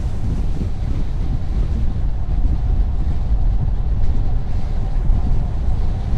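A car driving at highway speed: a steady low rumble of tyre and wind noise.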